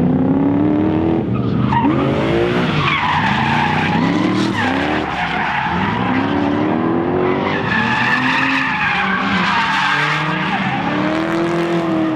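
Drift vehicle's engine revving hard up and down again and again while its tyres squeal through a slide.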